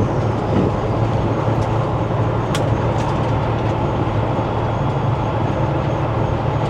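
Semi truck driving, heard from inside the cab: a steady low engine drone with road and tyre noise.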